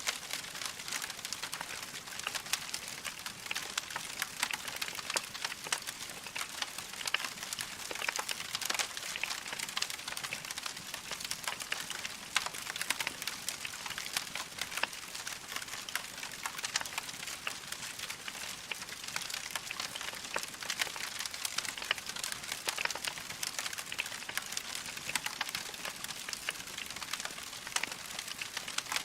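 Log fire crackling steadily: a dense stream of small pops and snaps over a soft hiss.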